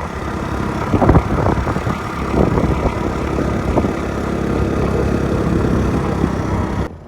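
A motor vehicle's engine running steadily under a rushing noise of travel, which cuts off abruptly near the end.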